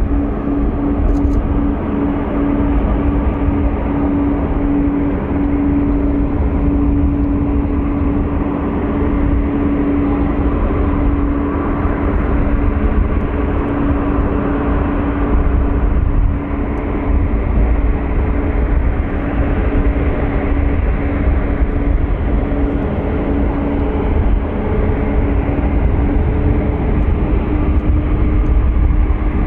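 Steady jet aircraft noise: a constant drone with a low rumble and a held hum, unbroken throughout.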